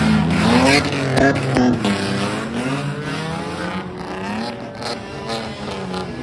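Engines of kaido-racer style modified cars revving, several exhaust notes repeatedly climbing and falling over one another, with a few sharp cracks about a second in.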